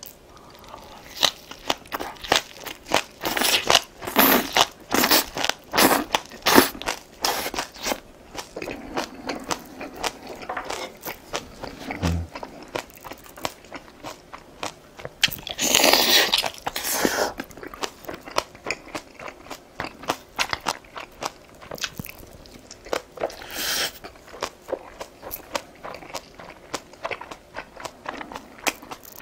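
Close-miked eating: rapid crunching and wet chewing of spicy green onion kimchi, with a couple of longer, louder noisy stretches of chewing.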